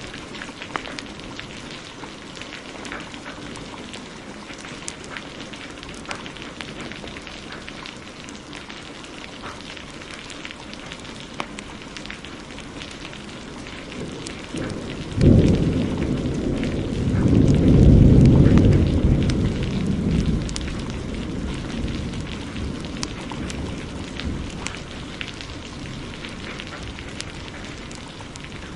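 Steady heavy rain with scattered sharp crackles from a fireplace. About halfway through, a sudden thunderclap breaks in and rumbles for several seconds before fading back under the rain.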